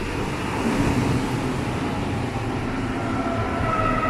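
Electric passenger train running, its rumble growing louder, with a steady whine of several tones setting in about three seconds in.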